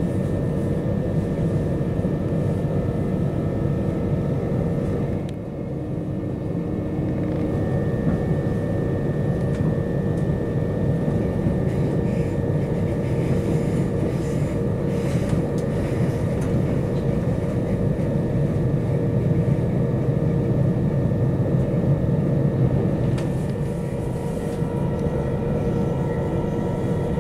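Passenger train running at speed, heard from inside the carriage: a steady rumble of wheels on track with a steady hum. It goes briefly quieter about five seconds in.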